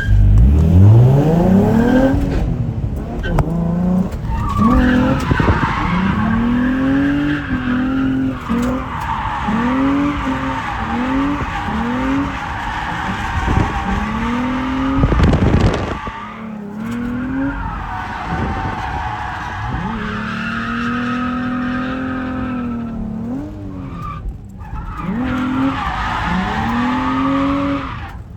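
Drift car's engine revving up and falling back again and again as the car slides, over the steady squeal of tyres.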